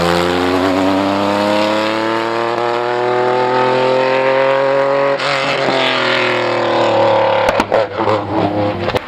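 Group B rally car engine at high revs, its pitch rising steadily for about five seconds, then falling away, with a few sharp cracks near the end.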